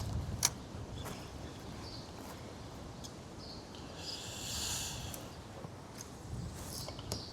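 Wind buffeting the microphone as a low rumble, with a few sharp clicks and a brief hiss about four seconds in.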